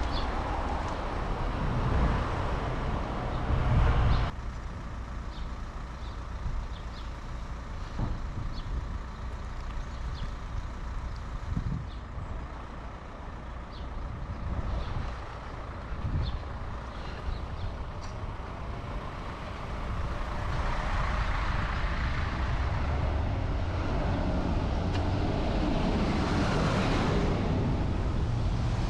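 City street traffic heard from a moving bicycle: a steady rumble of passing cars and trucks. It drops suddenly about four seconds in, grows louder again about two-thirds of the way through, and swells and fades near the end as a vehicle goes by.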